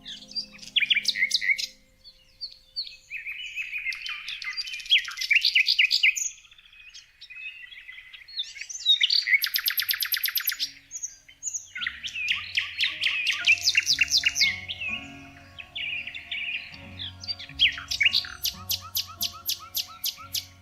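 Songbirds singing in a run of quick chirping trills and warbled phrases, several bursts of rapid repeated notes in turn. Soft background music with low held notes comes in about halfway through.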